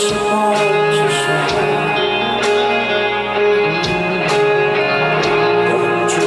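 Live rock band playing an instrumental passage with guitar to the fore over drums, with occasional drum or cymbal hits.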